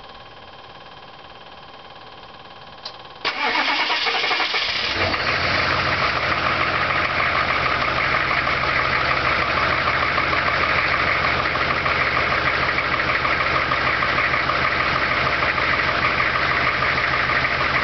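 Truck engine cold-starting after being plugged in overnight on its block heater: a click about three seconds in, a short burst of starter cranking, then the engine catches within about two seconds and settles into a steady idle. It starts readily, as a plugged-in cold engine should.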